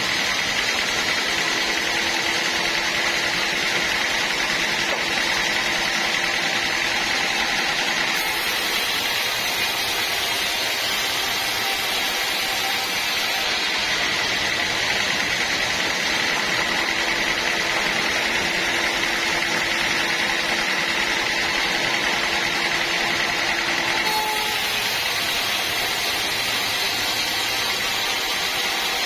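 Sawmill machinery running steadily, a continuous mechanical noise with a constant high whine.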